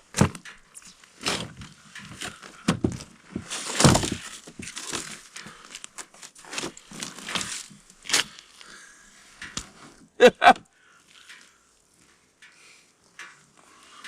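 Plastic bag rustling and crinkling with irregular dull thuds as pike are packed into a bag, and two sharp knocks in quick succession about ten seconds in.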